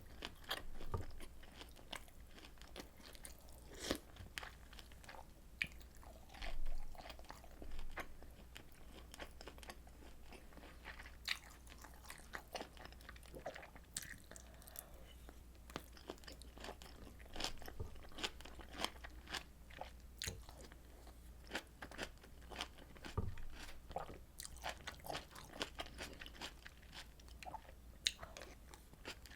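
A person eating close to the microphone: chewing and crunching with many small wet clicks, uneven in rhythm, and a louder bite about six and a half seconds in.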